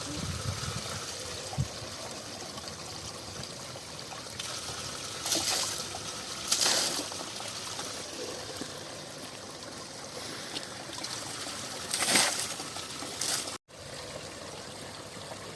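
Mountain spring water trickling steadily, with a few short, louder splashes, the loudest near the end.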